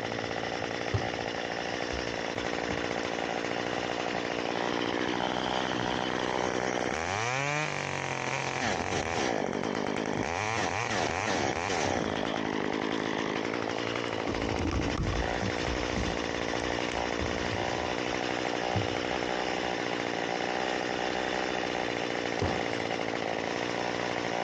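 Chainsaw engine running steadily, revving up twice, about seven seconds in and again around ten to twelve seconds.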